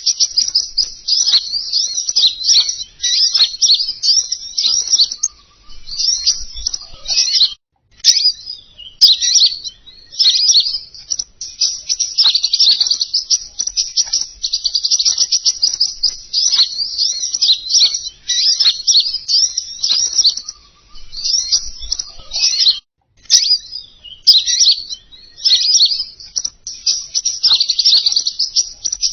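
Recorded song of a King Konin songbird, played as a lure call: fast, high-pitched twittering and chattering in long unbroken runs, with two short pauses.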